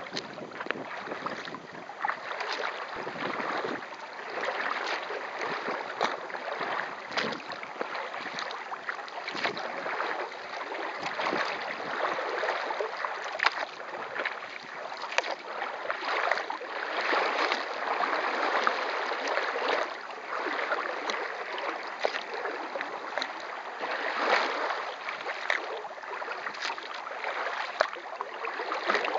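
Kayak paddle strokes splashing and dripping water, with a steady rush of water and a little wind noise.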